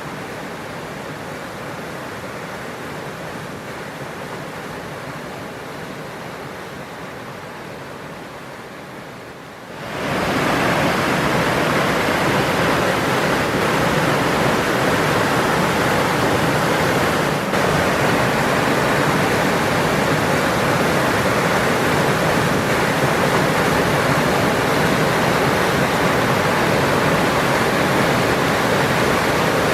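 A waterfall's falling water rushing steadily. About ten seconds in, it becomes suddenly much louder and fuller and stays that way.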